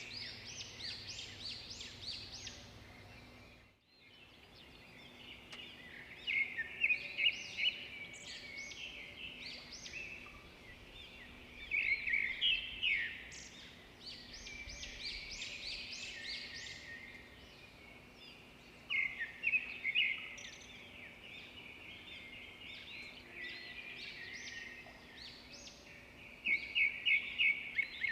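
Songbirds chirping and singing, with a loud phrase of rapid repeated notes returning about every six to seven seconds over a faint steady background hum. The sound cuts out briefly about four seconds in.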